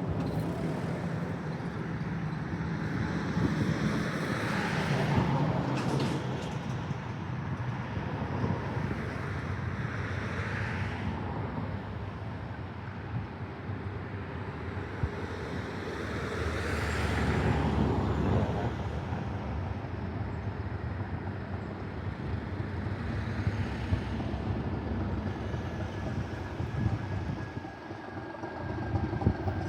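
Y-class diesel locomotive running with a passenger train, a steady low engine hum under noise that swells louder several times.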